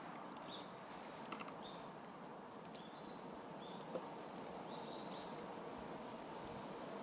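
A small bird chirping, short calls repeated about once a second, over a steady outdoor hiss, with a few faint clicks.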